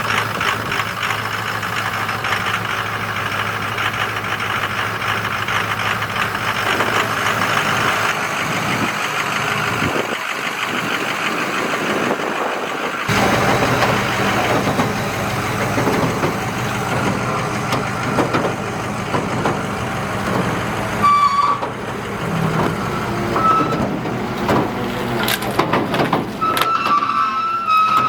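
Ford F-550 Super Duty dump truck's engine running steadily. The sound changes about halfway through, and a few short high beeps come in the later part.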